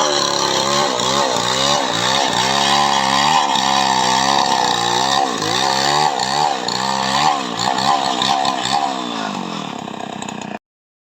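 Chainsaw cutting coconut wood, its engine pitch repeatedly dipping and rising as the chain bogs in the cut and recovers. The sound cuts off suddenly near the end.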